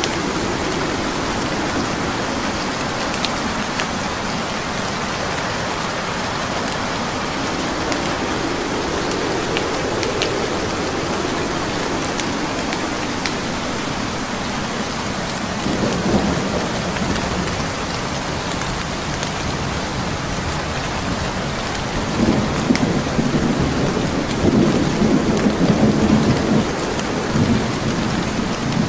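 Steady rain with a wood fire crackling faintly, scattered sharp pops over the hiss. Low rumbles of thunder swell up about halfway through and again over the last several seconds.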